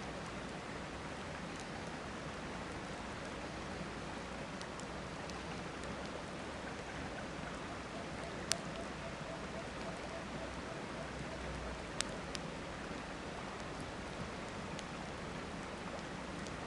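Steady rush of river water with a wood campfire crackling over it: scattered small ticks and two sharper pops, about eight and a half and twelve seconds in.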